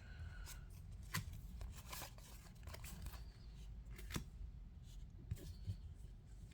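Trading cards being handled and sorted into piles: faint scattered clicks and rustles as cards slide and are set down.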